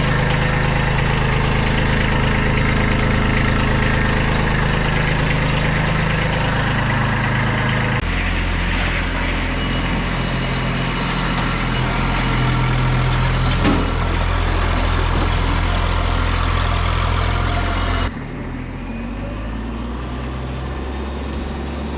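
Kubota B2301 compact tractor's three-cylinder diesel engine running steadily. Its note shifts about a third of the way in, and near the end the sound turns quieter and duller.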